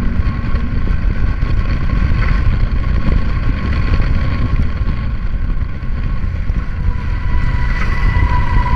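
Steady wind rush on the microphone with road and engine rumble from a Honda ADV160 scooter riding at speed; faint steady tones grow stronger near the end.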